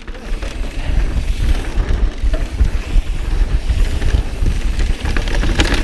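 Wind buffeting the microphone of a mountain biker's action camera, over the rumble of the bike's tyres rolling over a dirt trail, with small rattles and clicks.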